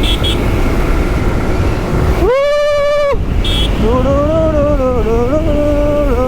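Suzuki Gixxer SF 155's single-cylinder engine running under way with heavy wind noise. About two seconds in, a vehicle horn sounds once for just under a second. Then, from about four seconds in, a man sings or hums a wavering tune over the riding noise.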